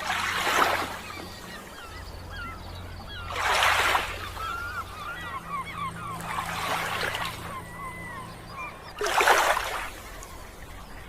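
Sea waves washing onto the shore in four surges about three seconds apart, with a flock of birds chirping and calling between them.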